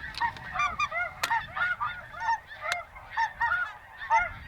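A flock of snow geese calling, many high, yelping honks overlapping in a constant chorus. Two short sharp clicks cut through about a second in and near the middle.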